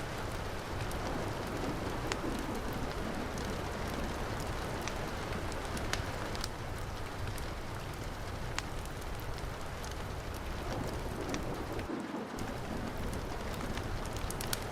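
Heavy rain falling steadily, with a wood fire's scattered sharp crackles and pops on top.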